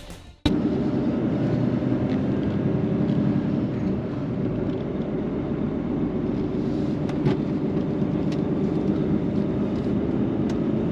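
The tail of rock music fades out, and about half a second in a steady lorry engine running noise cuts in and holds even, with a few faint clicks.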